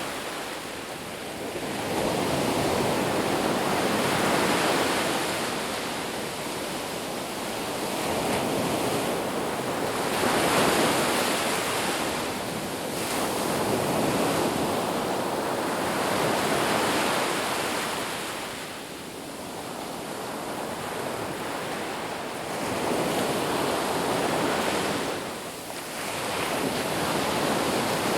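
Sea waves breaking and washing on a shore, a continuous rush of surf that swells and ebbs every few seconds.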